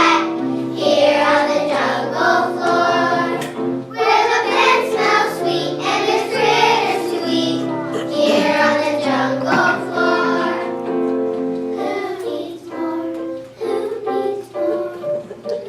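A group of children singing a song together, with instrumental backing music.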